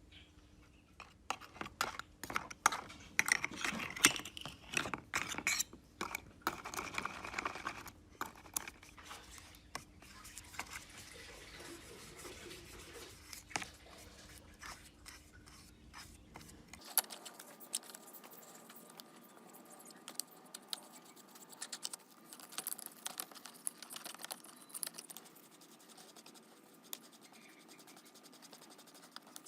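Small metal parts and hand tools clicking, knocking and scraping in irregular bursts as a lighter is worked on. About halfway through the sound turns thinner and quieter, with light scratching and ticks.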